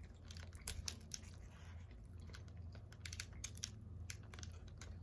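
Close-up chewing of crunchy corn chips with dip: a run of irregular crisp crunches and mouth clicks.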